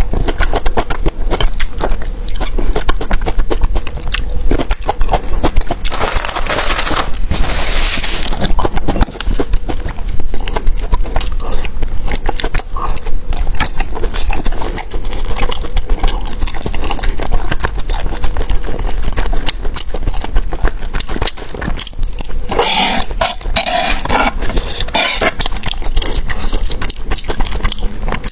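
Close-miked chewing and mouth noises of someone eating cherries, a chewy rice-paper noodle roll and spicy enoki mushrooms: dense crackling clicks throughout, with two louder noisy stretches, about six seconds in and again around twenty-three seconds.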